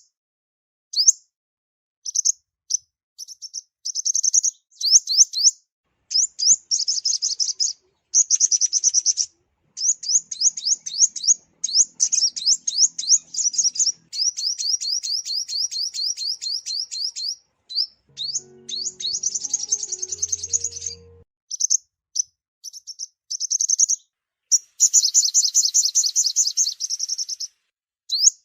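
Sunbird song: bursts of rapid, high, thin notes run together into fast trills, in phrases a second or a few seconds long separated by short pauses.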